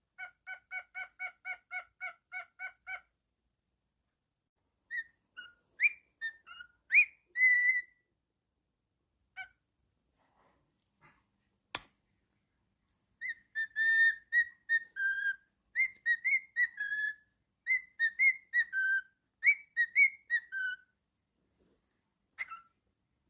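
Pet cockatiel whistling: a quick run of short beeping notes, about four a second, then scattered whistles. A sharp click comes near the middle, and after it a long, tuneful string of whistled notes.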